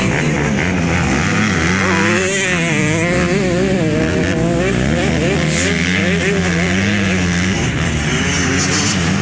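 Several motocross bikes racing, their engines revving up and down in pitch, with a steady engine din beneath.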